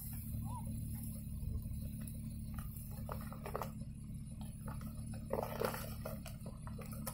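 Off-road vehicle engine running with a steady low hum, with a few short squeaky, whine-like sounds about halfway through and again later on.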